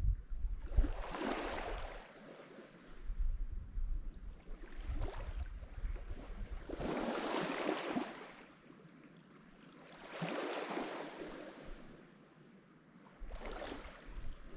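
Lake Michigan waves breaking and washing up the shore in four swelling rushes a few seconds apart. Low wind rumble on the microphone comes and goes, with faint high chirps scattered through.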